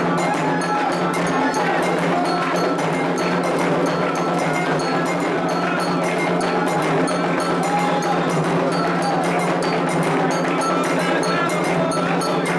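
Candomblé ritual drumming: atabaque hand drums and a clanging agogô bell play a fast, steady rhythm, with voices singing over it.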